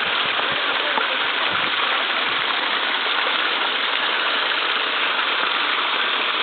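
Stream water rushing and splashing over rocks, a steady, even hiss.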